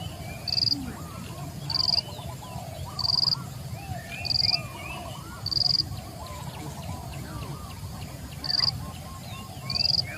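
A chorus of birds and insects. The loudest part is a short, shrill, high chirp repeating about once a second, with a pause of a few seconds past the middle. Softer, varied bird calls run under it.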